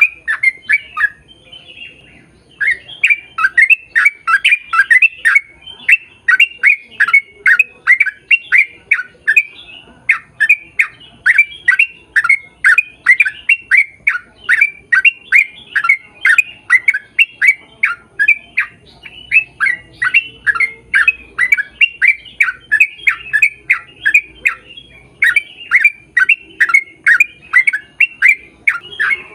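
A bird calling over and over in quick succession, about four short falling calls a second, in long runs with brief pauses.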